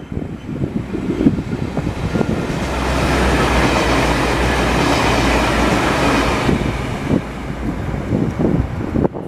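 A train passing close by on the rails: running noise swells, stays loudest with a steady low hum for about three seconds, then fades, with scattered knocks before and after.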